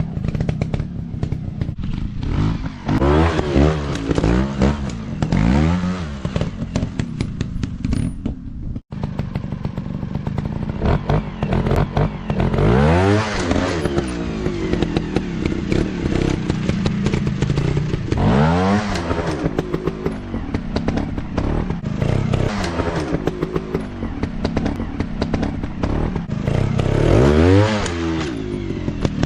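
Motocross dirt bike engines running, the revs sweeping up and down again and again: a burst of quick blips, then several long climbs and falls, over a steady engine drone.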